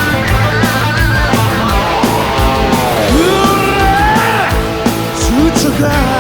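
Rock music: an electric guitar band with drums. About three seconds in, a lead line slides down and back up in pitch.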